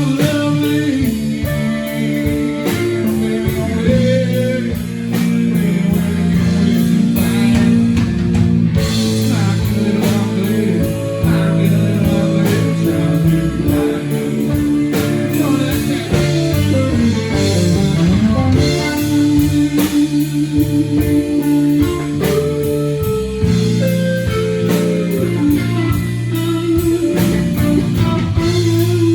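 Live blues-rock band playing: a lead electric guitar line with string bends and vibrato over bass and a steady drum beat.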